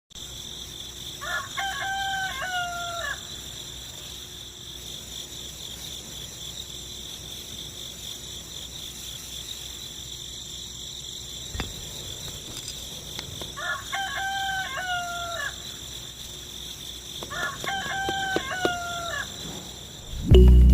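Rooster crowing three times, each crow about two seconds long, over a steady high-pitched hum.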